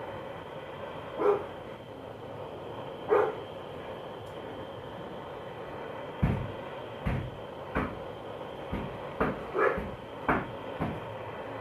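A butane torch hissing steadily while it heats a motorcycle crankcase. From about halfway through, a run of dull knocks sounds, and a dog barks a few times.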